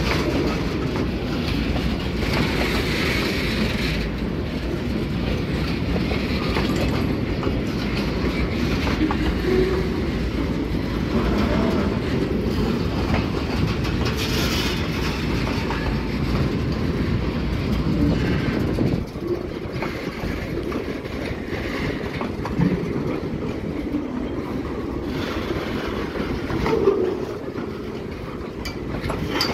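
Freight train of oil tank wagons rolling past: a steady rumble of wheels on rails with scattered clicks as the wheels cross rail joints. The low rumble eases a little about two-thirds of the way through.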